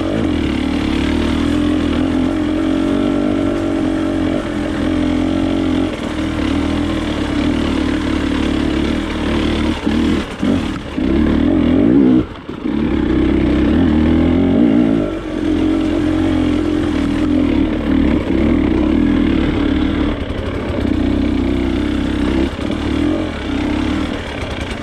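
Off-road motorcycle engine running under load over rough ground. The engine note rises and falls with the throttle and drops off briefly about halfway through.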